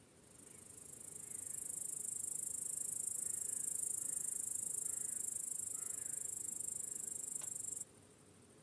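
A cricket's high, fast-pulsing trill that swells up over about a second and a half, holds steady, then stops abruptly about a second before the end, leaving a fainter steady chorus of insects behind it.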